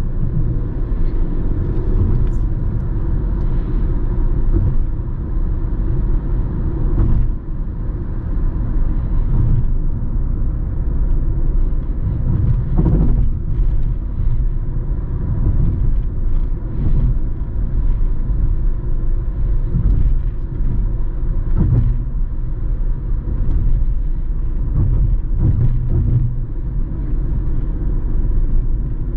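Steady low engine rumble with a faint constant hum and occasional short knocks.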